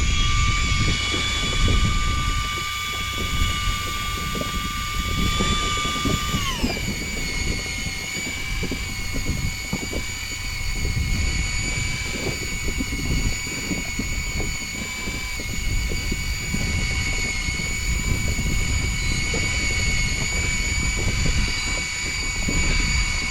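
A small boat engine, most likely an outboard motor, runs steadily. About six and a half seconds in its pitch drops as it is throttled back, then it holds at the lower speed. There is a rough low rumble of wind and water underneath.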